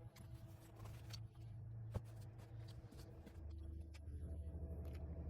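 Faint handling noises, light rustles and clicks of objects being moved, with one sharper click about two seconds in, over a low steady hum.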